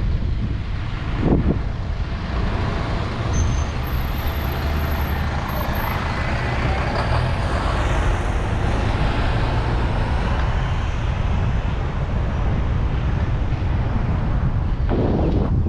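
Wind rushing over the microphone of a moving bicycle, with a large road vehicle passing; its noise swells and fades around the middle.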